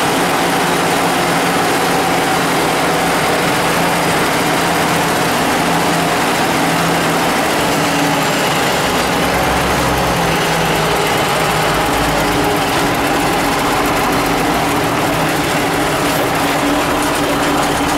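Ursus 1614 tractor's diesel engine running steadily and loudly, its tone shifting slightly about halfway through.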